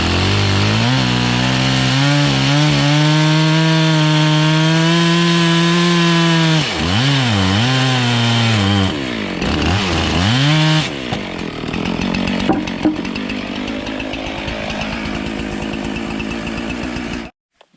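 Gas chainsaw cutting rough-sawn lumber: it revs up and holds at full throttle for several seconds, drops and revs up again twice, then runs lower and steadier before the sound cuts off abruptly near the end.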